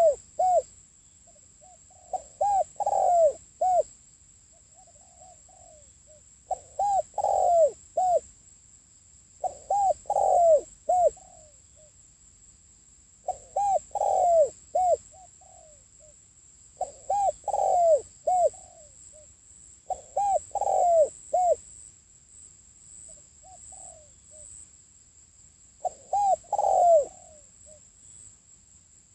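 Spotted dove cooing: about seven repeated phrases of several low coos, each phrase about a second and a half long and a few seconds apart. A faint steady high whine runs underneath.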